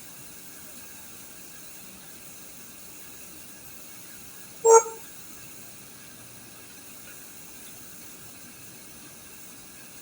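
One short electronic beep from a Yoosee security camera about five seconds in, one of a series of beeps coming about every six seconds, over a faint steady hiss.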